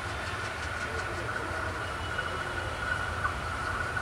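Diesel locomotive of an approaching express passenger train running: a steady low rumble with a steady high-pitched whine over it.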